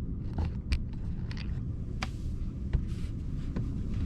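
Scattered small clicks and scrapes of a mug and utensils being handled while hot chocolate is made, over a steady low rumble.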